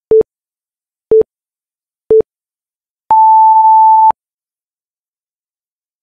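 Interval workout timer counting down: three short beeps one second apart, then one long, higher beep lasting about a second that signals the start of the next 20-second work interval.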